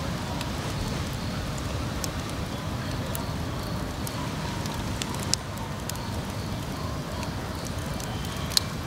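Wood fire crackling, with scattered sharp pops, the loudest near the end, over a steady low rumble.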